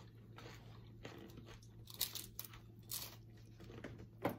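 Close-up eating sounds: crunchy bites and chewing of taco shells and tortilla chips, with a few sharp crunches about two and three seconds in and another near the end.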